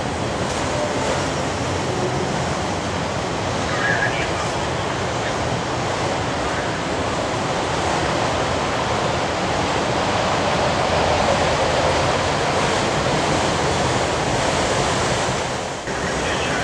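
Freight train of autorack cars rolling past: a steady rushing noise of steel wheels on the rails.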